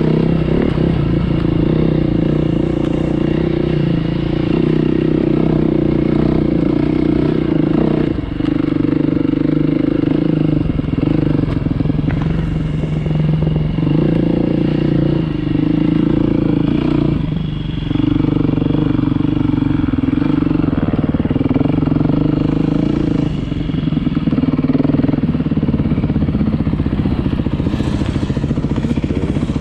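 Beta 390 RR-S four-stroke single-cylinder dirt bike engine running under way, its note rising and falling several times as the throttle is rolled on and off.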